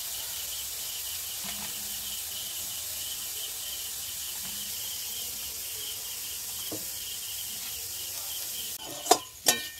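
Steady sizzle of sliced onion, carrot and capsicum frying in oil in a kadai, with a steady high, pulsing chirp behind it. A couple of sharp knocks come near the end.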